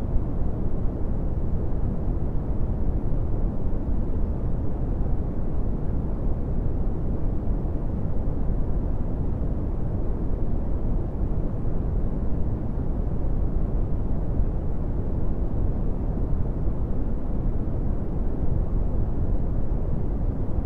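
Brown noise: a steady, even rumble of random noise weighted to the low end, with no rhythm or change.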